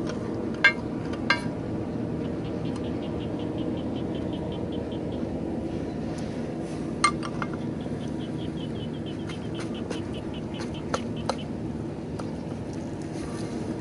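Sharp metal clinks, a few at a time, of tools and parts being handled at the tractor's front wheel hub, over a steady engine hum. Two runs of quick light ticks, about five a second, come in the middle.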